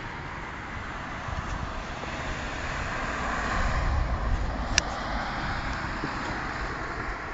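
BMW E46 M3 straight-six with a Hamann exhaust idling with a low rumble, under a broad swell of outdoor noise that peaks about four seconds in. A single sharp click sounds near five seconds in.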